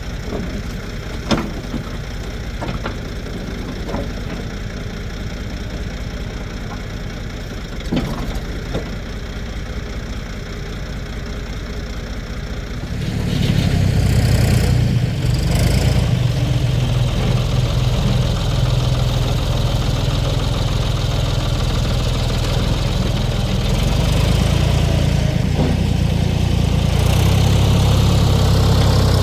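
Diesel engine of a 1973 Ford 4500 industrial backhoe running steadily, with a few sharp knocks in the first half. About halfway through it revs up and keeps running harder and louder.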